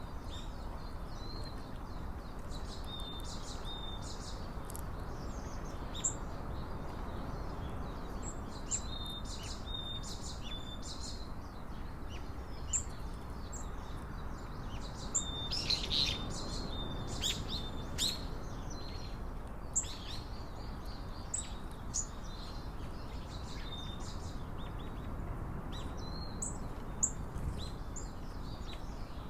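Wild birds chirping and calling, many short high notes and short repeated call phrases scattered throughout, over a steady low background rumble.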